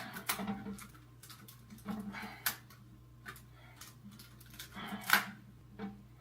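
Irregular clicks and snaps of rubber bands being stretched and let go onto a wet watermelon, the sharpest snap about five seconds in, over a steady low hum.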